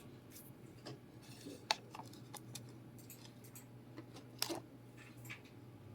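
Scattered light clicks and clinks of small objects being handled, over a steady low hum. Two sharper clicks stand out, one just under two seconds in and one a little past the middle.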